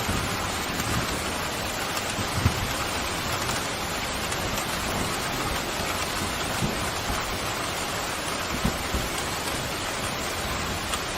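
Steady heavy rain pouring down, an even hiss. Two brief low thumps, one about two seconds in and one near the end.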